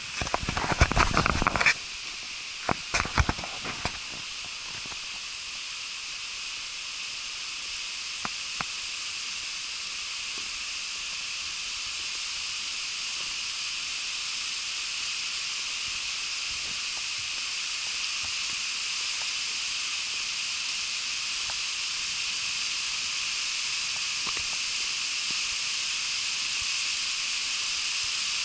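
Steady rushing hiss of the Tamasudare waterfall, slowly growing louder. In the first few seconds, loud rumbling knocks and a few clicks come over it.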